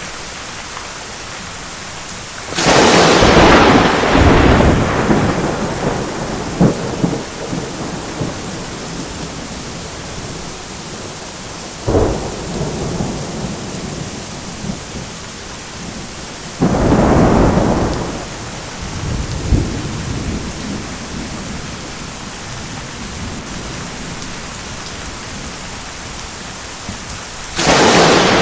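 Steady rain with thunder. A loud thunderclap comes about three seconds in and rumbles for a couple of seconds, a sharp crack follows about halfway through, another clap comes a few seconds later, and a new one breaks just at the end.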